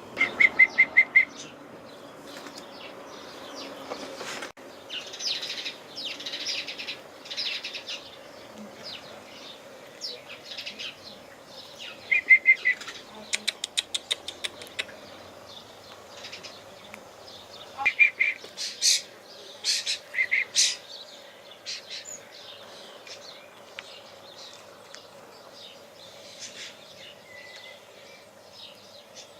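Wild songbirds calling and singing: bursts of short high chirps and several quick trills, over a faint steady hum.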